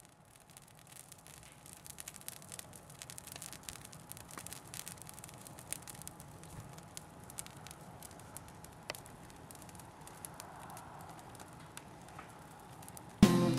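Herb cuttings and hedge trimmings crackling as they burn in a garden incinerator, with faint scattered pops and snaps. Acoustic guitar music comes in near the end.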